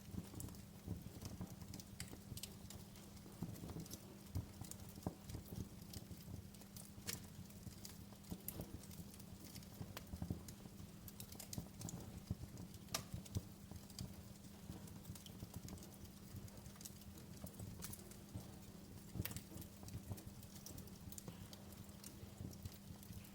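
Wood fire crackling: irregular sharp pops and snaps, a few louder than the rest, over a low steady hum.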